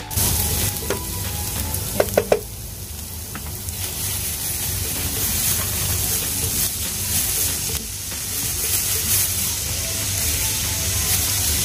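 Finely chopped aromatics sizzling in hot oil in a nonstick frying pan while a wooden spatula stirs and scrapes them, with a few sharp clinks about two seconds in. Partway through, raw ground beef is tipped into the pan and the frying continues.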